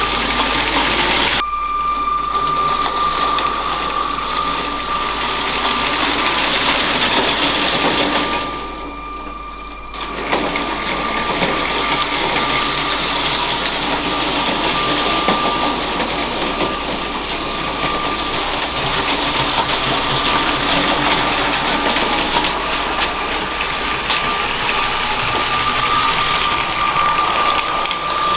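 LEGO train's small electric motor whining steadily as the train runs along plastic track, with mechanical gear noise. The sound drops away sharply for about a second and a half roughly eight seconds in, then comes back.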